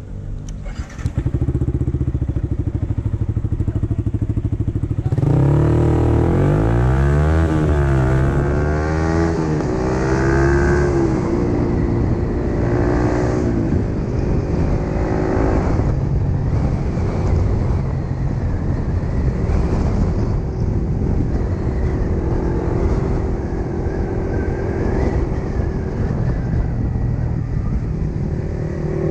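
Yamaha MT15's single-cylinder engine, which comes up loud about a second in and runs steadily for a few seconds. About five seconds in the revs rise and fall again and again as the motorcycle accelerates and shifts up through the gears, then it settles into a steady cruising note.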